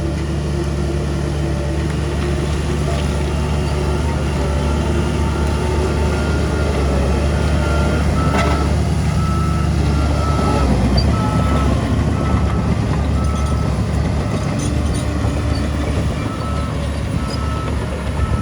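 Diesel engine of heavy earthmoving machinery running steadily under a reversing alarm that beeps at an even pace, about once every 0.7 seconds: a machine backing up. The engine note drops a little about ten seconds in.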